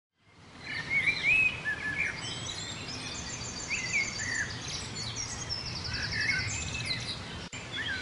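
Several birds chirping and calling, with short whistled notes and quick trills, over a steady rushing background noise. The sound fades in at the very start.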